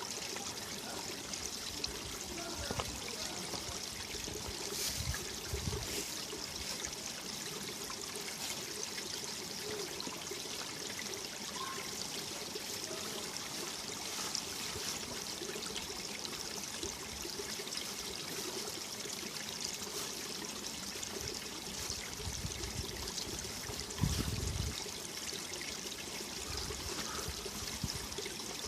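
Mountain valley stream running over rocks: a steady rush of water with trickling and gurgling. There are a few brief low thumps, the loudest about 24 seconds in.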